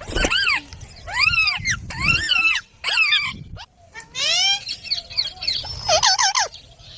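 Indian ringneck parakeet giving a run of about six loud calls, each rising then falling in pitch. The last calls come in quicker, shorter notes near the end.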